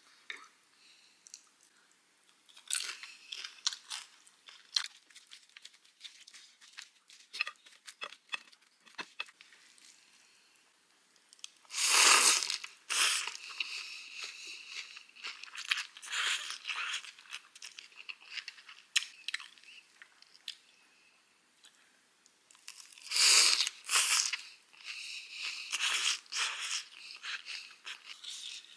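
Close-miked chewing and crunching of rice noodles, raw shredded cabbage, herbs and fried spring rolls, in scattered small crunches and mouth clicks. Two louder, longer slurps of noodles about twelve seconds in and again about twenty-three seconds in.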